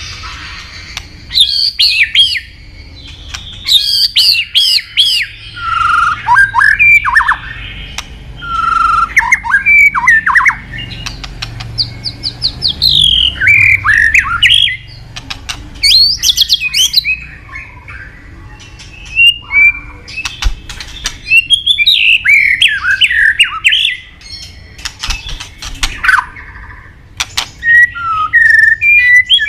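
White-rumped shama (murai batu) singing: loud, varied phrases of rich whistles, sweeping notes and quick rattling runs, with short pauses between phrases.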